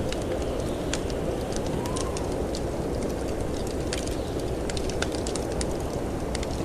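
Wood fire crackling in a fireplace with frequent sharp pops, over a steady rush of snowstorm wind. The wind whistles briefly, rising and falling, about two seconds in.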